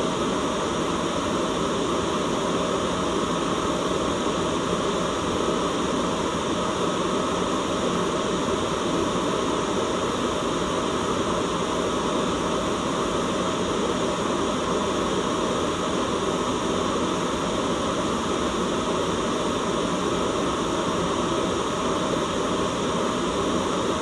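Steady white noise: an unchanging, even hiss with no breaks or variation, fullest in the low-middle range.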